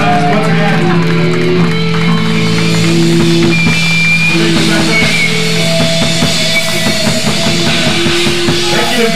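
Loud rock music: guitar notes held over a steadily played drum kit.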